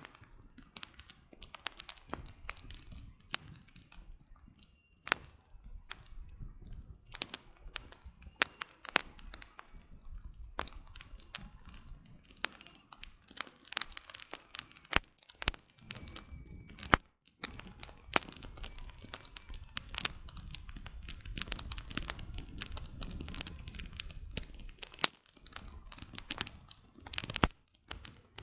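Campfire of burning firewood crackling, with irregular sharp snaps and pops, several a second and some much louder, over a low rumble.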